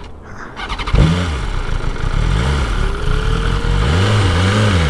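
BMW S1000RR's inline-four engine catching about a second in after a brief crank, then revved in a few rising and falling blips. The bike is being restarted after it cut out with a 'fault in engine control' warning.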